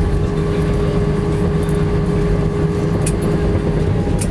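Cabin noise of an Airbus A319-115 just after landing: a steady low rumble with an even hum from its CFM56-5B engines and airframe. Two brief clicks come near the end.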